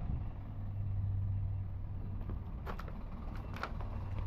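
Truck engine idling with a steady low hum; a few short clicks or knocks come about two-thirds of the way through.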